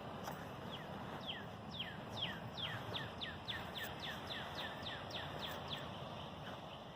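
A songbird singing a long run of quick down-slurred whistles, about three a second, over steady outdoor background noise; the song stops about a second before the end.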